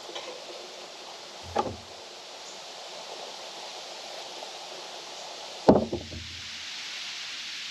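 Two hard knocks about four seconds apart, the second one louder, each with a dull thud beneath it, over a steady background hiss.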